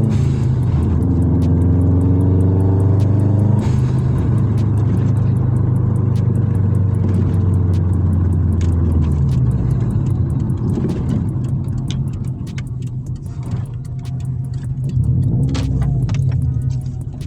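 Straight-piped Subaru Impreza WRX flat-four exhaust under way with a loud, steady drone. It eases off about halfway through, swells briefly near the end and then drops away.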